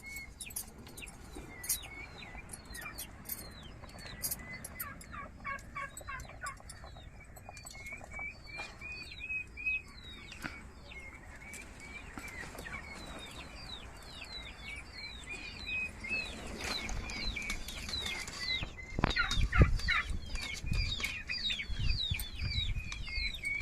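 Birds chirping over and over, many short falling calls in quick succession. A few louder knocks come about three quarters of the way through.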